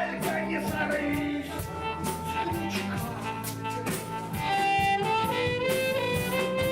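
Live rock band playing an instrumental passage: drums keeping a steady beat under bass and a held, sustained lead melody line.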